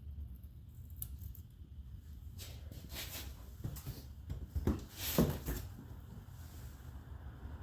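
Metal parts and hand tools being handled during transaxle disassembly: a run of short clinks and scrapes in the middle, the loudest two a little after halfway, over a steady low hum.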